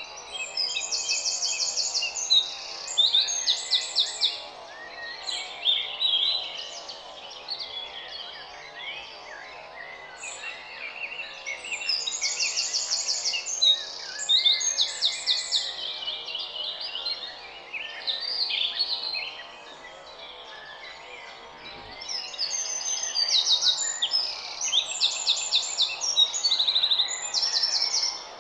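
A songbird singing in long bouts of high, rapid trills and chirps, with three main bursts of song separated by quieter gaps.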